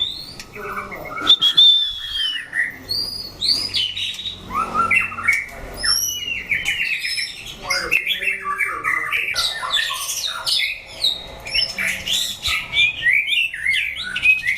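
Several white-rumped shamas singing at once, rapid whistled phrases with rising and falling glides and harsh notes overlapping without a pause.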